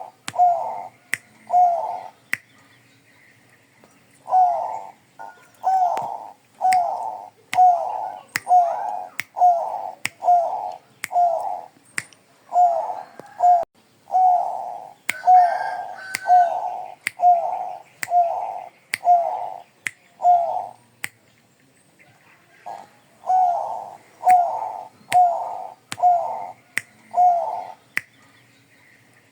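A Bangkok-strain zebra dove (perkutut) cooing its rhythmic song, with a short phrase a little under once a second and two brief pauses. Sharp clicks are heard between the phrases.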